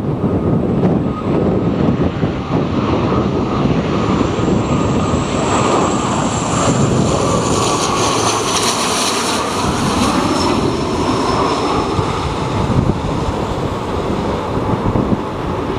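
Jet airliner passing low overhead on approach to land, its engines' high whine swelling in the middle and falling in pitch as it goes by. Strong gusting wind buffets the microphone throughout.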